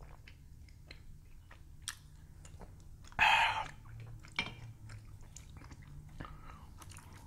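Close-up chewing and biting with small wet mouth and chopstick clicks, as two people eat. About three seconds in comes a short, loud, breathy sound, and a light knock follows about a second later.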